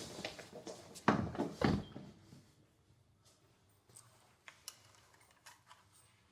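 Two dull thuds about half a second apart, followed by a few faint clicks in near silence.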